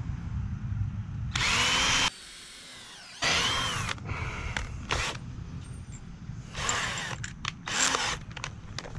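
Cordless drill running in four short bursts on 2x4 lumber, its motor whine rising in pitch as it spins up each time. The first two runs are longer, and two shorter ones come near the end.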